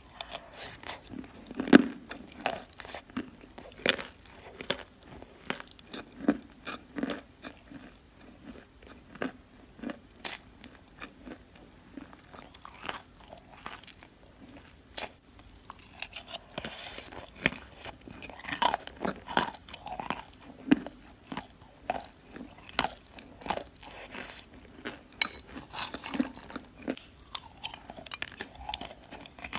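Wet Ural clay being bitten and chewed: an irregular run of crisp crunches and wet chewing sounds.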